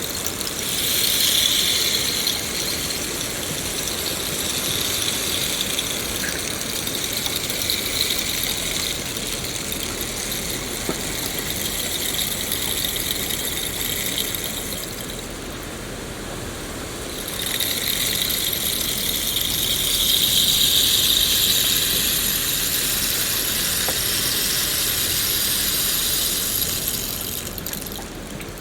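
Steady rain falling, a dense high hiss that eases for a couple of seconds about halfway through, then swells louder again and falls away near the end.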